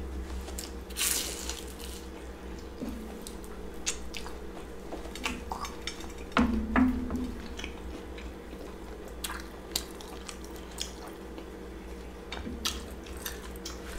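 Close-up chewing of a deep-fried, beer-battered king crab leg: crisp crunches of the fried coating, with scattered wet mouth clicks and smacks. The crunch about a second in and the one about six and a half seconds in stand out from the rest.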